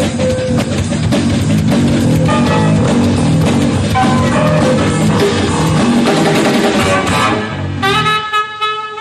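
Live jazz-rock band playing, with drum kit, bass and electric guitar. About eight seconds in, the bass and drums drop back and a held chord of several sustained notes rings out.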